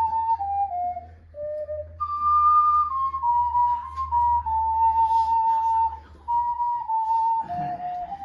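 An ocarina playing a slow melody of held, pure-toned notes that step up and down, with a couple of short breaks between phrases.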